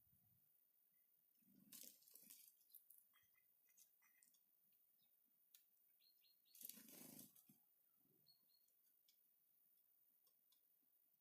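Small animal feeding at a bird feeder, faint: scattered clicks and rustles, with two louder scuffles about two and seven seconds in and a few short high chirps.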